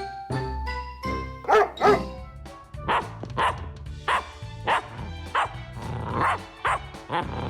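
Puppy barking: two loud barks about a second and a half in, then a run of short, sharp barks about twice a second, over background music.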